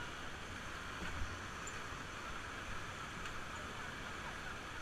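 Steady rushing of river water, with a low wind rumble on the microphone.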